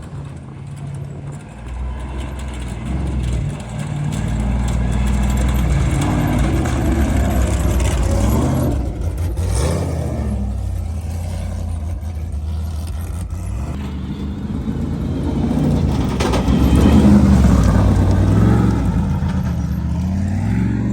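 Off-road race vehicle engines revving, the pitch rising and falling again and again, loudest about 17 seconds in.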